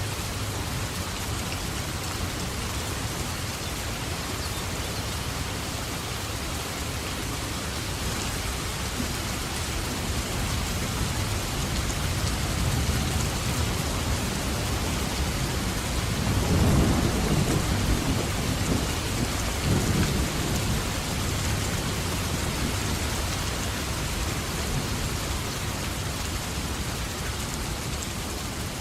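Steady heavy rain falling, with a roll of thunder rumbling up about halfway through, loudest for a few seconds and then dying away.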